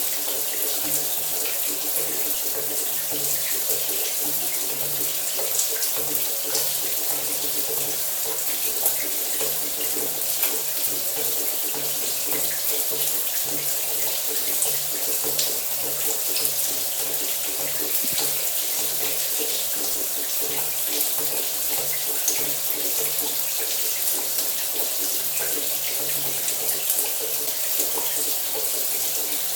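Shower running steadily, water spraying and splashing with small scattered droplet ticks and a faint low hum beneath.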